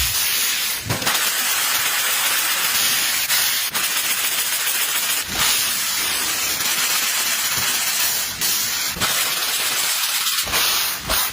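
A steady rushing hiss, with a handful of brief knocks scattered through it.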